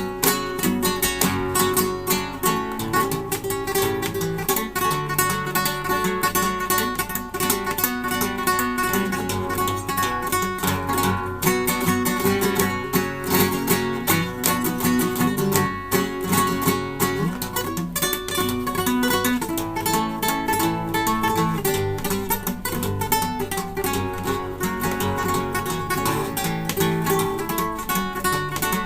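Classical guitar played solo: a dense, continuous stream of plucked notes and chords.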